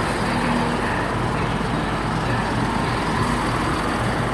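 Diesel multiple-unit trains standing at the platforms with their engines running: a steady low drone with an even hum.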